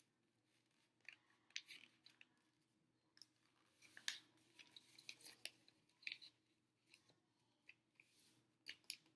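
A sheet of paper being folded and creased by hand for a paper airplane, heard as faint, intermittent crisp rustles and crackles.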